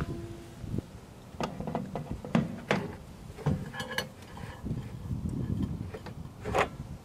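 A series of irregular knocks and clicks with some rustle between them, as of objects being handled and set down.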